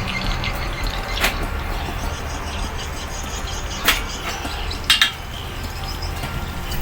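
A few short, sharp metallic clinks, about four spread across several seconds, over a steady low hum.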